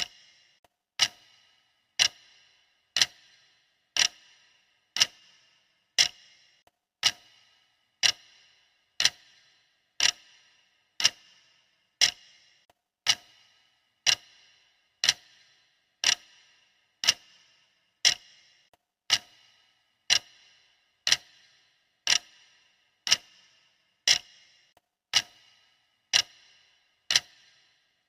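Clock ticking steadily, one sharp tick each second with a short ring after each.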